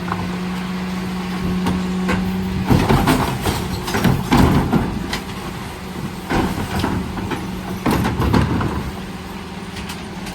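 Mercedes Econic refuse truck working: a steady hum for the first few seconds, then several bursts of clattering and banging.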